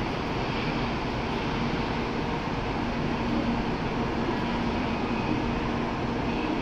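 Steady hum of a standing N700-series Shinkansen train, its onboard equipment running with a low held tone over a wash of station noise.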